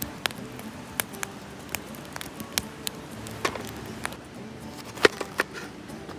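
Wood campfire crackling: irregular sharp pops over a low hiss, with a few louder pops about five seconds in.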